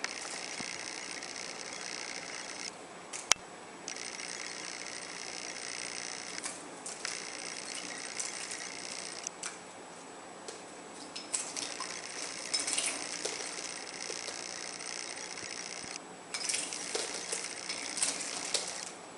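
Fischer's lovebird bathing in a shallow dish of water: bouts of splashing and wing-fluttering broken by short pauses, with light clinks and rattles of the dish and cage.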